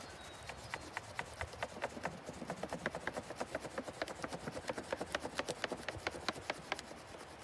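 Green crayon rubbed quickly back and forth over paper laid on rough tree bark: a run of short scratchy strokes, several a second, making a bark rubbing.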